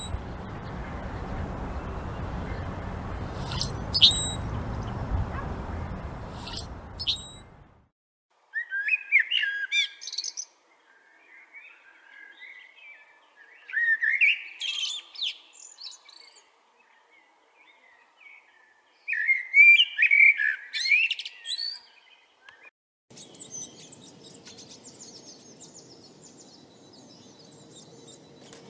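Songbirds singing: first short high chirps over a steady rushing noise, then after a sudden cut three loud warbling song phrases a few seconds apart, and in the last few seconds faint rapid twittering over a low steady hum.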